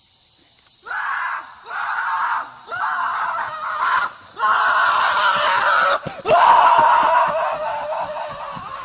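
An animal screaming again and again: about six harsh screams in a row, the last two drawn out longer.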